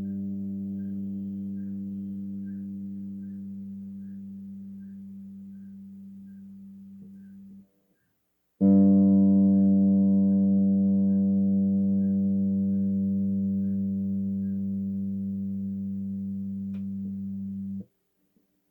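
Bass guitar's G string plucked and left to ring while being tuned, after it sounded a little high: one low note sustains and fades for about eight seconds and is damped, then is plucked again and rings for about nine seconds before being muted. Faint ticking about twice a second runs under the first note.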